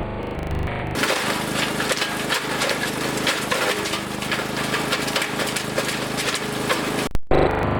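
Engine-driven wood chipper running and chewing branches: a steady engine hum under dense cracking and snapping of wood. It starts about a second in and cuts off suddenly near the end, with electronic music around it.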